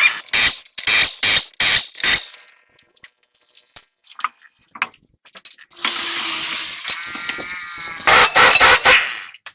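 Workshop sounds from a truck repair: a run of about five loud, sharp knocks in the first two seconds, scattered lighter clicks, a steady whirring tool sound partway through, then another cluster of loud knocks near the end.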